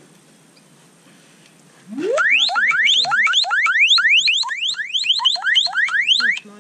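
Mobile phone ringtone: a fast run of rising electronic sweeps, about four or five a second, starting about two seconds in and stopping shortly before the end.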